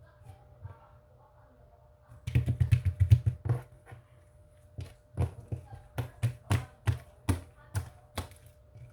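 Sharp taps or clicks: a quick run of them about two seconds in, then single taps about two or three a second until near the end.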